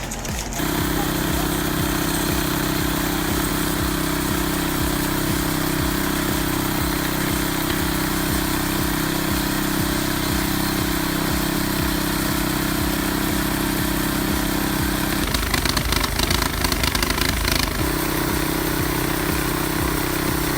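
Small engine of a portable sawmill running at a steady speed. About fifteen seconds in, the steady hum gives way to a rougher, noisier couple of seconds, then steady running resumes.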